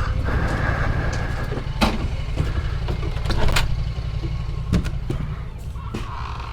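Side-by-side UTV engine idling with a steady low rumble while the machine stands still, with a few sharp knocks over the top.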